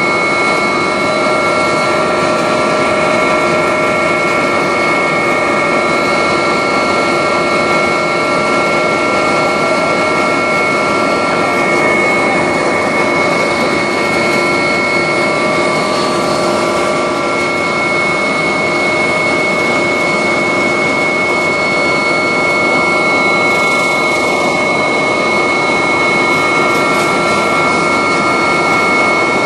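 Agusta helicopter's turbine engines and rotors running steadily, heard from inside the cabin: an even rushing noise with a steady high whine and several held tones over it.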